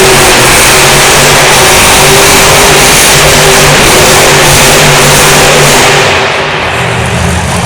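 Monster truck engine running hard at high revs, very loud, then easing off about six seconds in.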